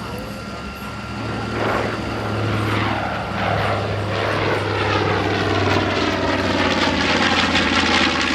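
North American B-25 Mitchell bomber's two Wright R-2600 radial engines droning as it flies in, growing louder, with a sweeping, phasing sound in the higher tones.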